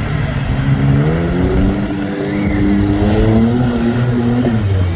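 Heavy vehicle engine revving. Its pitch rises about a second in and holds high, then drops briefly near the end.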